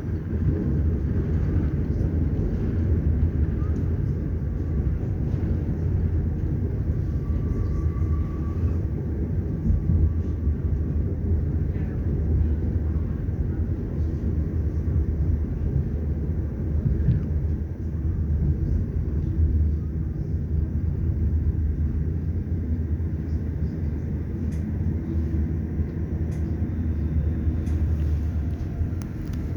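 Steady low rumble of a passenger train running along the track, heard from on board.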